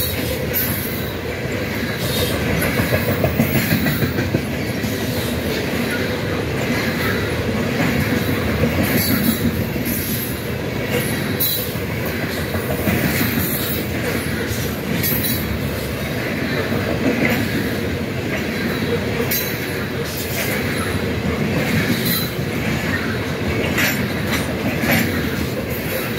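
Freight train of covered hopper cars rolling past close by: a steady rumble of steel wheels on the rails, with sharp clicks every few seconds.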